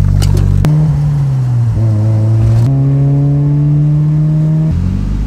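Mazda Miata's four-cylinder engine running as the car drives with its top down; the note dips, then climbs steadily as it picks up speed, with a couple of abrupt jumps in pitch where stretches are spliced together.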